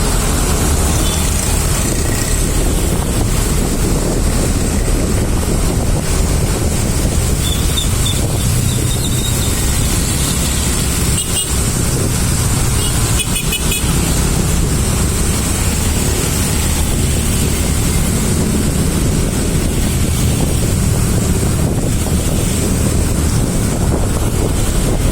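Road traffic noise in a slow-moving jam: a steady low rumble of vehicle engines and tyres. Brief higher tones sound about eight and thirteen seconds in.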